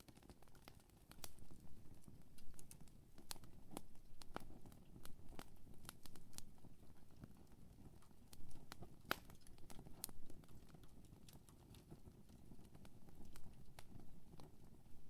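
Wood campfire burning: irregular sharp crackles and pops from the burning wood over a steady low rumble of the flames.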